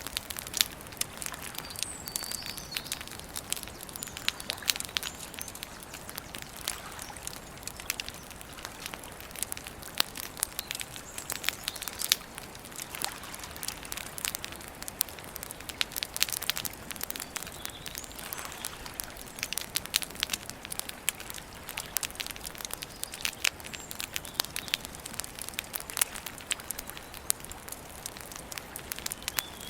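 Wood campfire crackling steadily with frequent, irregular sharp pops, and a few faint bird calls now and then.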